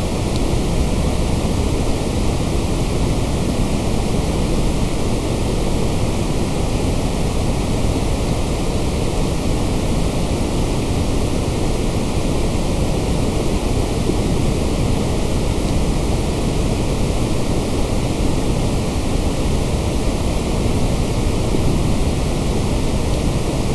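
Steady generated white noise: a constant, even hiss that is heavier in the low end and never changes.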